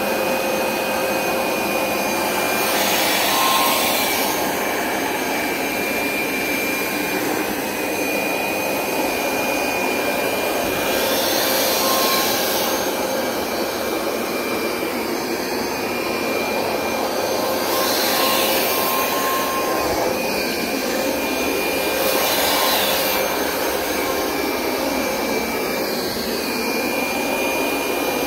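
Hoover SmartWash Pet Complete carpet cleaner running in dry-only mode, suction only, with a steady motor whine. A higher hiss swells several times as it is worked over the rug.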